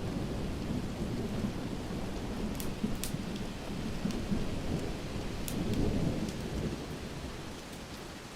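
Thunder rumbling over steady rain. The rumble swells about six seconds in, then dies away near the end. A few sharp crackles from a wood fire stand out above it.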